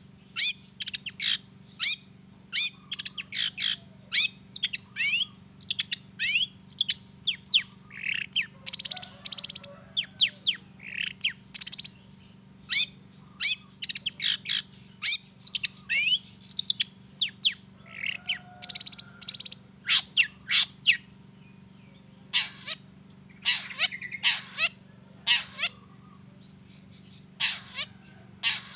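Long-tailed shrike (cendet) singing: a fast, unbroken string of short sharp chirps and whistling notes, with harsh rasping calls about 9 and 19 seconds in.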